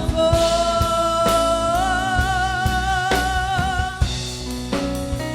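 Live worship band with a drum kit playing while a woman singer holds one long note with vibrato on "louvor"; the note ends about four seconds in and the band plays on.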